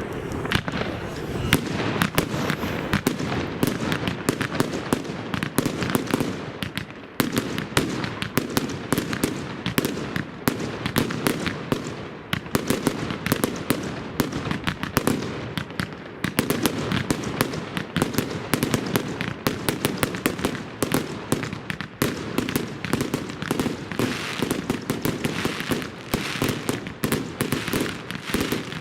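Dense, continuous fireworks and firecrackers going off, a rapid run of sharp cracks and bangs over a steady low rumble.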